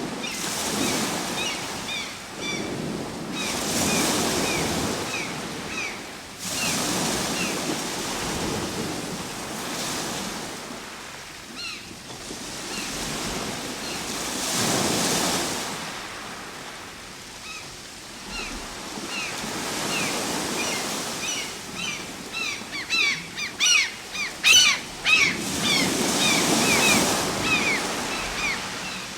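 Ocean waves breaking and washing ashore, the surf swelling and ebbing every few seconds. Short high chirps run over it throughout, thickening near the end into a burst of rapid chirps and sharp clicks, the loudest part.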